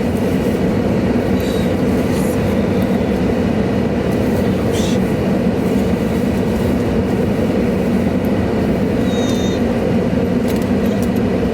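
Steady low road and engine noise inside a moving car's cabin, with a couple of faint brief high squeaks near the end.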